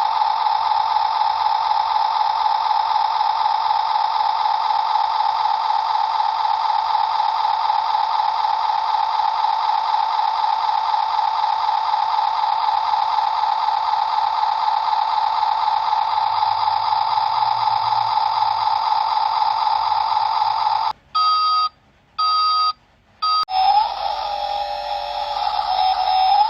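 A steady, slightly warbling electronic tone that runs unbroken for about 21 seconds and then stops. A few short beeps follow, then a different wavering electronic tune starts near the end.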